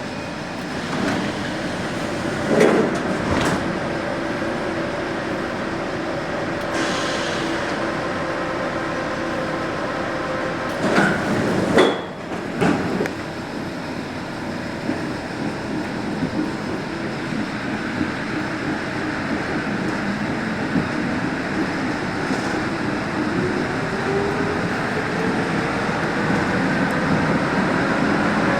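Santiago Metro NS-74 rubber-tyred metro train running, a steady mechanical running noise with several sharp knocks and clanks. Near the end a whine rises in pitch as the train's motors speed up.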